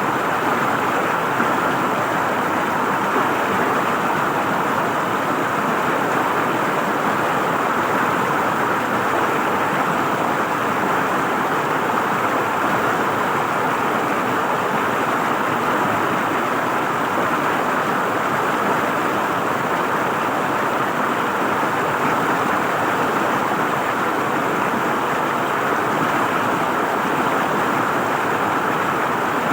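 River water flowing and gurgling, a steady, even rush with no breaks.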